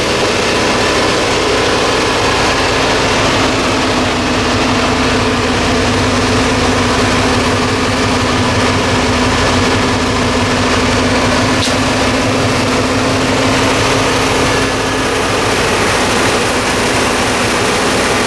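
1994 Chevrolet Impala SS's 5.7-litre LT1 V8 idling steadily and smoothly, still cold shortly after a cold start.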